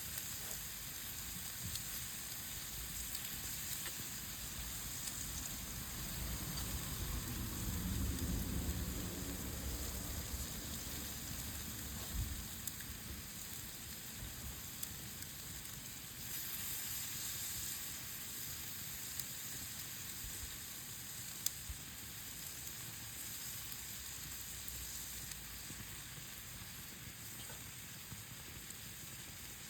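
Meat sizzling over a campfire: a steady hiss with a few sharp pops, and a brief low rumble about eight seconds in.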